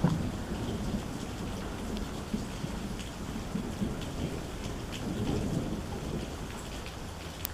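Steady heavy rain with thunder: a sudden clap right at the start, then low rolling rumbles that swell and fade over the next several seconds.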